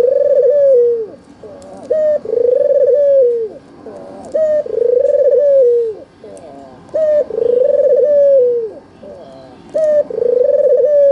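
Albino Barbary dove (white, red-eyed puter) cooing in a steady repeated phrase: one or two short notes followed by a long drawn-out coo that drops in pitch at its end, about every two and a half seconds, four to five times. Faint high chirps of small birds sound behind it.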